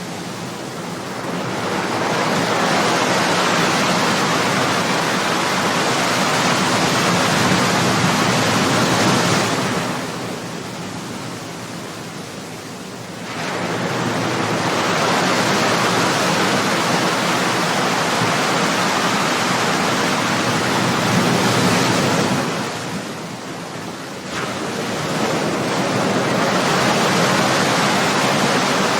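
Ocean waves breaking and washing up the shore, in long surges of surf about ten seconds apart, with short lulls between them.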